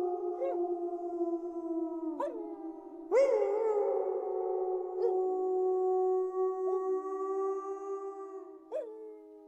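Wolves howling in chorus, several long drawn-out howls overlapping at different pitches. A new howl rises in sharply a few seconds in, and the calls slide slowly downward and fade near the end.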